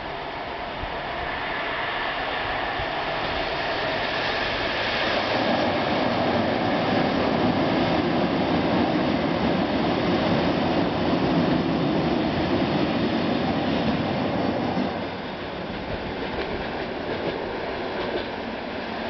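Lithuanian Railways electric multiple unit passing by, its wheel and running noise building to a loud rumble, then dropping sharply about three-quarters of the way through as it moves away.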